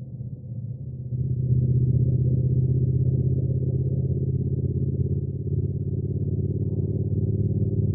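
Triumph Speed Twin's parallel-twin engine running under way, heard dull with nothing high in it. It eases off briefly and picks back up about a second in, then holds steady.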